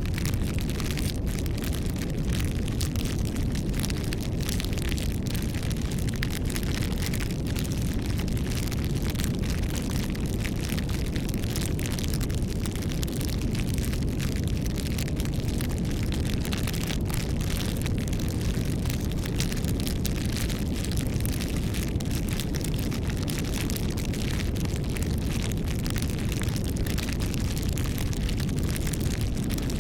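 Wood bonfire burning with a steady low rush and many small crackles and pops throughout.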